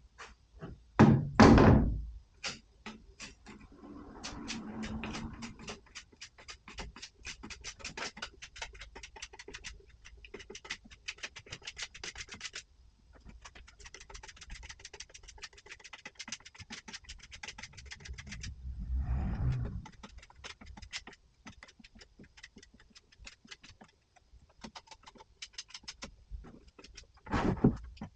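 Rapid light clicking and tapping, several strokes a second, with a couple of heavy thumps about a second in and another near the end: objects being handled and set down.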